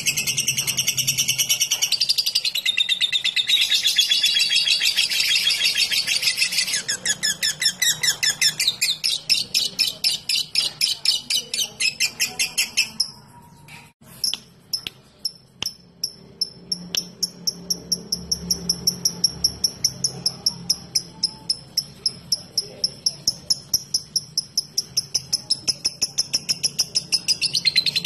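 Lovebird calling: a dense, high-pitched chattering trill for the first several seconds, turning into a fast run of sharp repeated chirps. About halfway through it breaks off briefly, then comes back as a steady series of quick, evenly spaced chirps, roughly five a second: the clicking 'typing' call.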